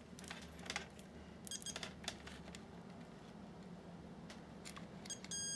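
Faint clicks and taps of small parts being handled, then near the end a steady high electronic beep from a multimeter's continuity test, the sign that the timer plug's fuse is intact.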